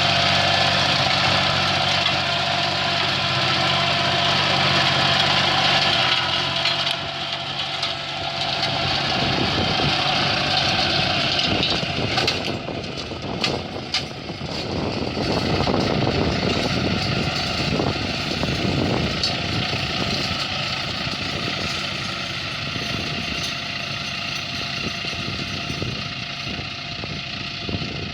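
Tractor engine running: a steady idle for about six seconds, then the sound turns rougher and uneven, with a few sharp knocks partway through.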